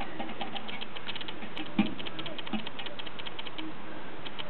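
Aluminium foil crinkling faintly as it is handled: many rapid light clicks over a steady hiss.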